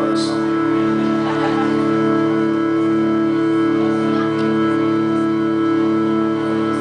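Live band music: a sustained organ-like chord held steadily, its lower notes pulsing slowly about twice a second.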